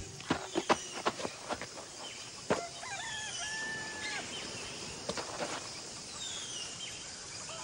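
Jungle ambience with bird calls: thin whistled notes, some sliding downward, and a pair of held tones about three and a half seconds in. A run of sharp clicks and knocks comes first, in the opening two seconds or so.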